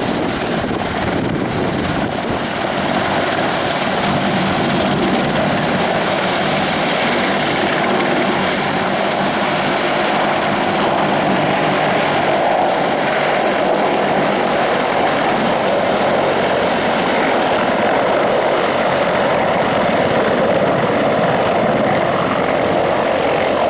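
Mi-26 heavy transport helicopter running: its twin turboshaft engines and eight-blade main rotor make a loud, steady noise that does not change.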